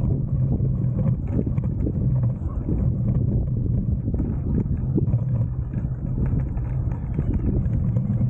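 Bicycle riding noise: a steady low rumble of the bike rolling along, with many small rattles and knocks, and wind on the microphone.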